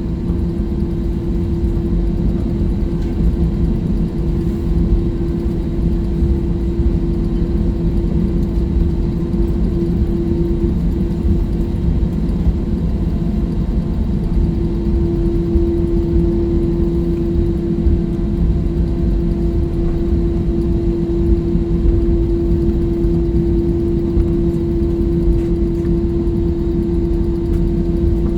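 Inside a jet airliner's cabin: the engines running with a steady low rumble and a constant hum, with no rise or fall in pitch or loudness.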